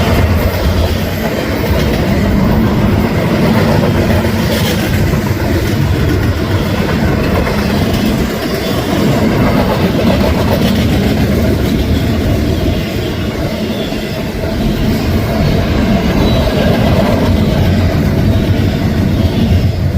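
Union Pacific intermodal freight train rolling steadily past, a continuous loud noise of steel wheels on rail.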